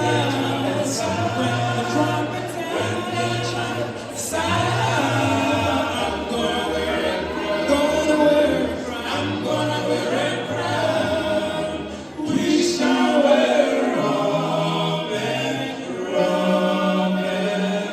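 A cappella gospel group singing in close harmony with a deep bass line, no instruments.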